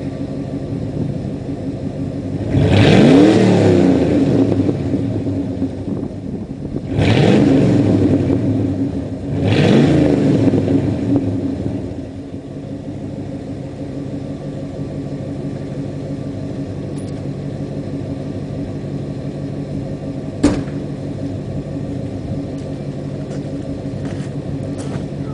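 1988 Ford F-150 engine idling through an exhaust with the second catalytic converter cut out and a straight pipe welded in its place, leaving it nearly straight-piped. It is revved three times, each rev rising and falling back, then settles to a steady idle. A single sharp click sounds about twenty seconds in.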